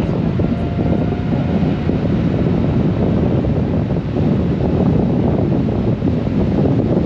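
Steady wind rush on the microphone mixed with the running engine and road noise of a Honda Gold Wing motorcycle under way.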